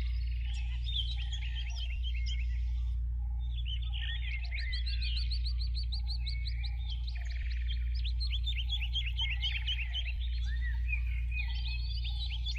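Dense chirping and twittering of many small birds, rapid short rising and falling calls that pause briefly about three seconds in, over a steady low hum.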